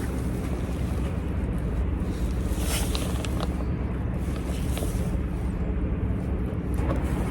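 Steady low mechanical hum, like a distant engine running, with a few faint short rustles about three seconds in.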